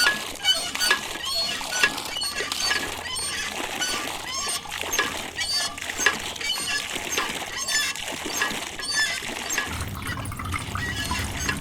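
Water pouring and splashing, with many quick small clicks and squeaks; a steady low hum starts near the end.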